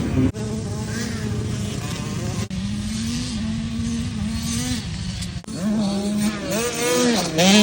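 Dirt bike engines running and revving in short clips cut together abruptly. The pitch holds steady for stretches, then rises and falls in quick revs near the end.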